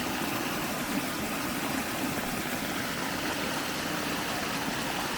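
Steady rush of stormwater runoff flowing down a small seasonal creek.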